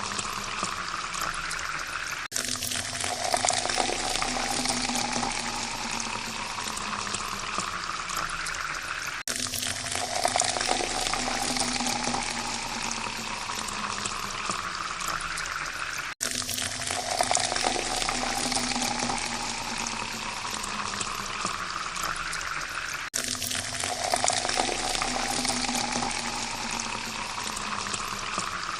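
Water pouring steadily into a glass, its pitch rising as the glass fills. The pour cuts off and starts afresh about every seven seconds.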